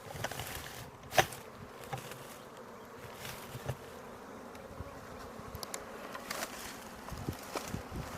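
A swarm of honeybees buzzing steadily around a hive as a package colony is installed. A sharp knock about a second in, and a few lighter taps.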